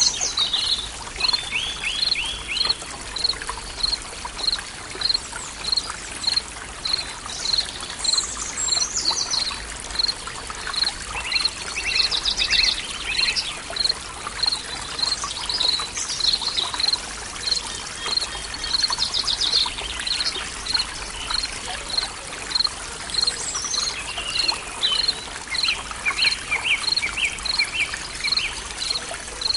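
Forest stream trickling steadily, with birds singing over it. A short high note repeats evenly about one and a half times a second throughout, and trilled bird phrases come and go several times.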